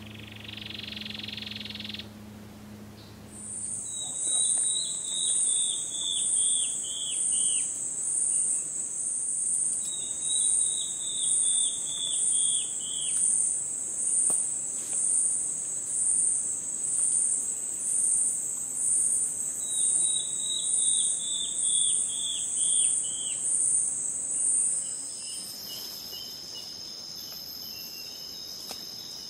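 A bird sings a series of about a dozen down-slurred notes that fall in pitch, each series lasting about three seconds, three times. Behind it an insect makes a loud, shrill, pulsing sound at about one beat a second. Near the end the pulsing stops and steady insect trills take over.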